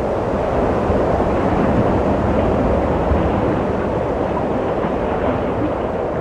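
Steady wind blowing, a deep rushing noise that swells slightly around the middle and eases toward the end.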